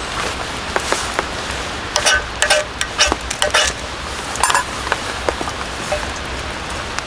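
Steady rain patter with scattered drops tapping. Between about two and five seconds in come a few louder metallic clinks that ring briefly, like camp gear being handled.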